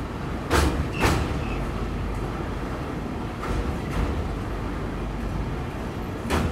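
Moving passenger train running with a steady low rumble, its wheels knocking over rail joints in pairs of clacks about half a second apart, three pairs in all.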